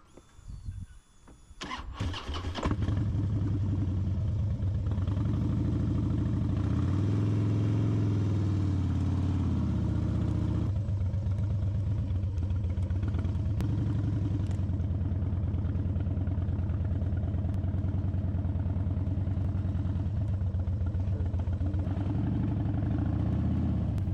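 Harley-Davidson Dyna Super Glide's V-twin engine starting about two seconds in, then running steadily. Its revs rise and fall for a few seconds in the middle.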